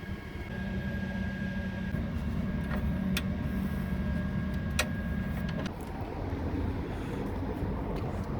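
Hyundai Elantra (Avante HD) engine idling, a steady low hum with a thin high whine over it. The hum and whine drop away about two-thirds of the way through, and two sharp clicks come near the middle.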